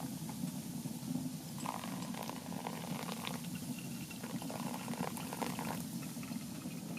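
Fine icy snow, a needle-like sleet, pattering against tent canvas as scattered small ticks over a steady low rumble.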